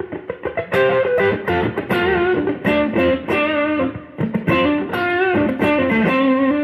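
Electric guitar with McLguitars V2 clone pickups, neck and middle pickups together, played through stacked overdrive pedals: a single-note lead line with string bends and vibrato, a slightly dirty, raspy tone.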